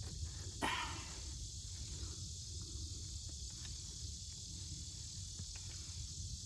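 Steady high insect chorus droning in the background, with a low rumble and a few faint clicks scattered through it.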